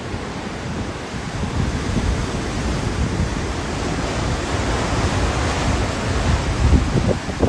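Hurricane Ian's wind blowing hard in gusts, buffeting the microphone, and growing stronger toward the end.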